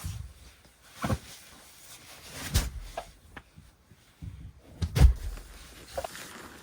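A series of irregular knocks and thumps, about six, the loudest about five seconds in.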